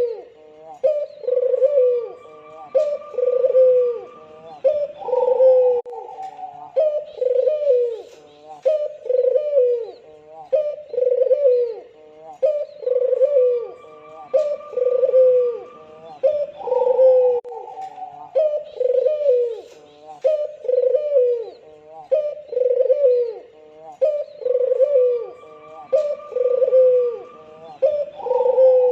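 White (albino) Barbary dove cooing over and over, a run of low, falling coos at about one or two a second. The same stretch of calling repeats about every twelve seconds, as a looped lure recording meant to set other doves calling.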